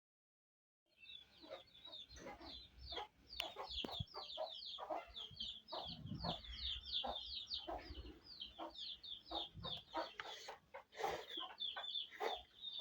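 Chickens calling: a dense run of short, high peeps, several a second, with lower clucks among them, starting about a second in.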